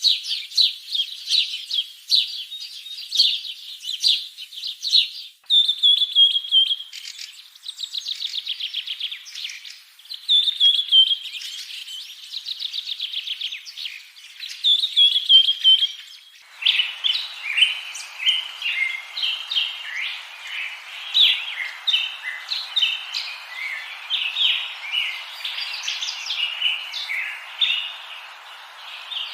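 Songbirds chirping and singing, with repeated whistled phrases and fast trills of many notes a second. About halfway through, the sound changes abruptly to many overlapping chirps over a steady hiss.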